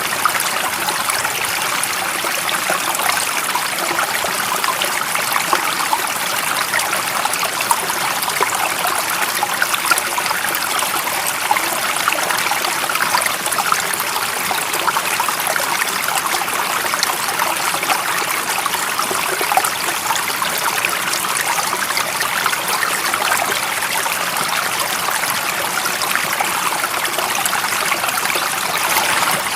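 A stream running steadily, its water babbling and splashing over stones in a dense, even rush.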